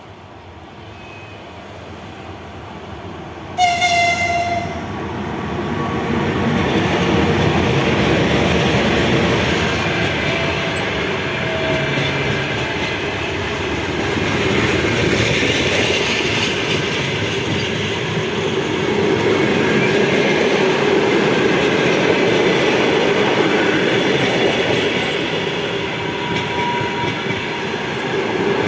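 Train giving one short horn blast about three and a half seconds in, then rolling past. The wheels on the rails make a steady rush with clickety-clack and a few brief squeals.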